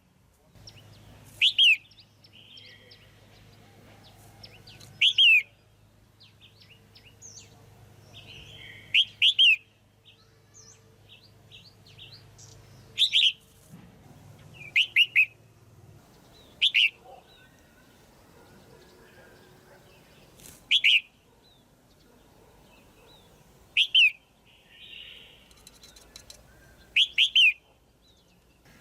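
Female red-whiskered bulbul calling: short, loud call notes that slide downward in pitch, repeated every three to four seconds, some given in quick pairs, with softer chirps between.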